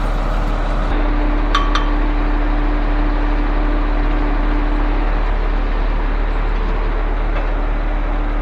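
Truck-mounted concrete pump running steadily under its diesel engine, with two quick metallic clinks about a second and a half in.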